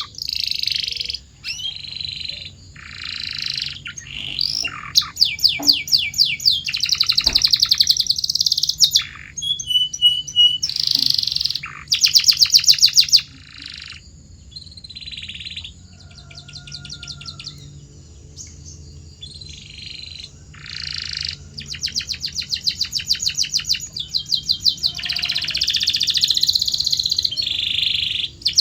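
Canary singing: long phrases of very fast repeated notes rolling into trills, alternating with gliding whistled notes and short chirps, with brief pauses between phrases.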